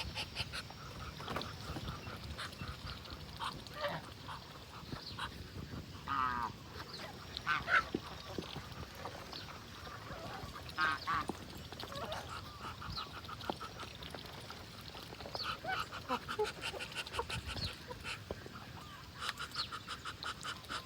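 A flock of domestic ducks and geese calling: quacks and honks in quick repeated runs, with a few louder calls between about six and eleven seconds in.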